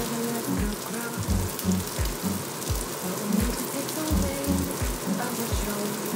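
Pirozhki frying in shallow oil in a skillet: a steady, dense crackling sizzle, under background music with a steady beat.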